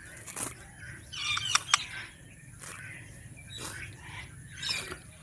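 Indian ringneck parakeet making soft, scattered chirps and chatter, mixed with a few sharp clicks.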